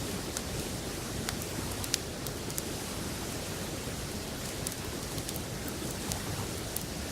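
Wood campfire crackling, with a handful of sharp pops scattered through, over the steady rush of a river.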